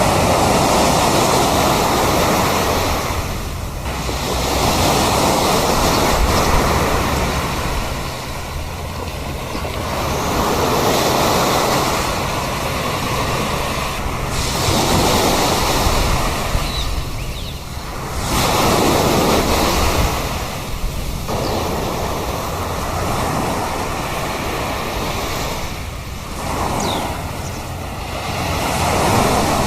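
Sea waves breaking on a beach, each wash rising and falling away every few seconds.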